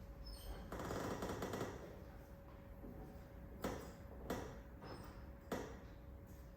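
A rustle about a second in, then three short, sharp knocks, the second and third about a second and a quarter apart, like stage movement on a wooden floor.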